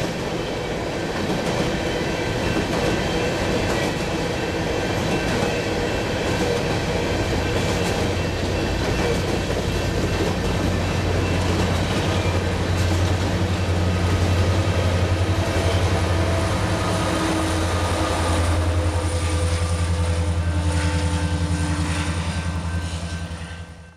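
Empty coal gondolas rolling past with a steady rattle and clickety-clack of wheels over the rail joints. From about eight seconds in, the low drone of a diesel engine grows stronger as the rear distributed-power locomotive, an EMD SD70MAC, comes by.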